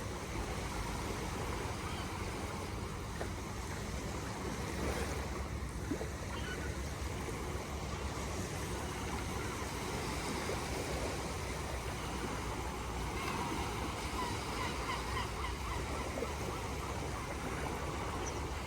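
Steady wash of sea surf with a low wind rumble, and a few faint short chirps about two-thirds of the way through.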